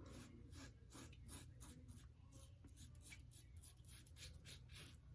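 Faint, quick scratchy strokes, about three or four a second, of a wet shave on the face.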